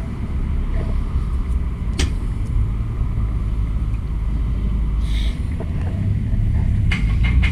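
Steady low rumble of riding noise from a camera carried on a moving fixed-gear bike: wind on the microphone and tyres on the road. A sharp click about two seconds in and a few rattling clicks near the end.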